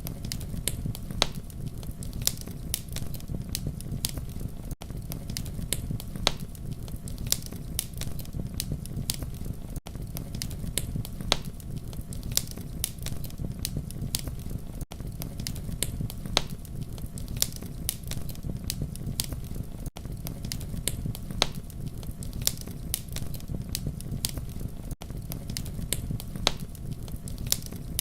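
Campfire crackling, with many sharp pops and snaps over a steady low rumble of flames. A brief gap in the sound comes about every five seconds.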